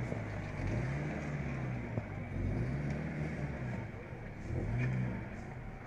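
Car engine heard from inside the cabin, its note rising and falling back about four times as the car is driven.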